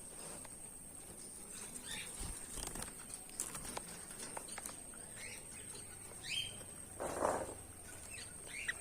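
Goldfinches giving scattered short chirps and calls, with light taps and a brief flutter of wings about seven seconds in.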